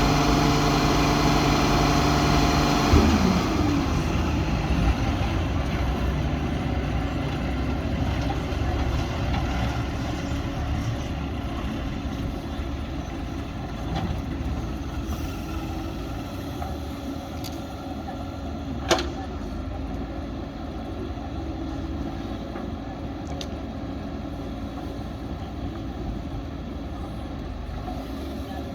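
Heavy diesel engine of earthmoving machinery running strongly, its note dropping away about three seconds in, then a lower, duller engine rumble that slowly fades, with one sharp click partway through.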